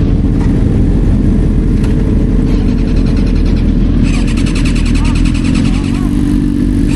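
Motorcycle engines running with a heavy, steady low rumble. About four seconds in, a fast, fine rattling joins higher up.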